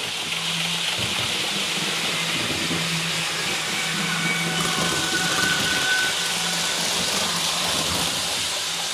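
HO-scale REE model TGV running at its top speed along the track: a steady hissing rush of motor and wheels on rail, with a low hum that comes and goes.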